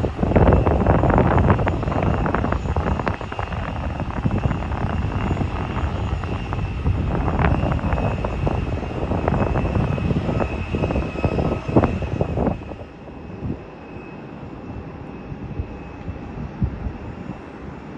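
Jet airliner engines running loud as a plane passes, with wind buffeting the microphone in irregular gusts. About two-thirds of the way through, the sound drops off abruptly to quieter wind noise and distant engine rumble.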